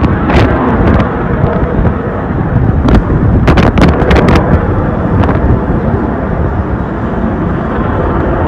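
Aircraft flying over, a loud steady roar with a deep rumble, and a cluster of sharp clicks about three to four seconds in.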